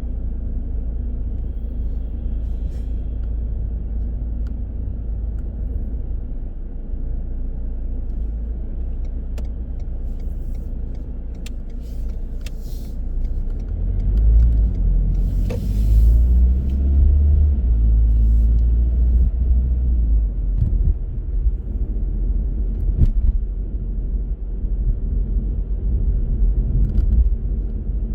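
A car's engine and road noise, a steady low rumble that grows louder about halfway through as the engine note rises, with a few faint clicks.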